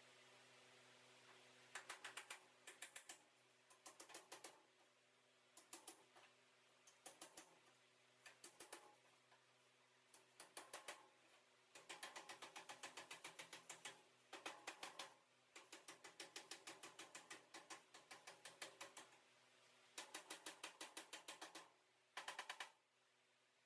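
Faint rapid clicking in repeated short bursts, each a quick run of light, sharp clicks, with a steady low hum underneath.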